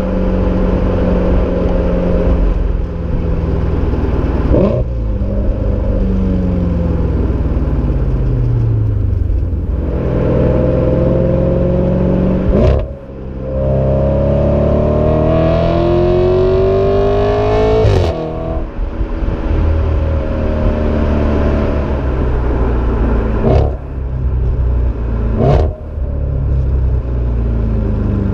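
Exhaust of an Audi RS5 running a Supersprint non-resonated mid X-pipe with stock mufflers, heard while driving: the engine note climbs and falls repeatedly as the car accelerates and eases off. There are several short sharp cracks at the peaks, the loudest and longest climb ending about two thirds of the way in.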